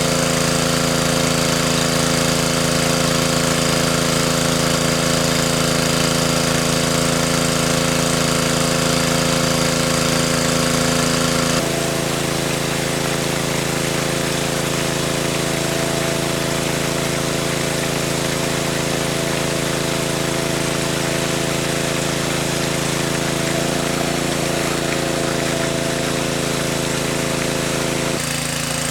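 A small engine running steadily at a constant speed, its tone changing abruptly about a third of the way in and again near the end.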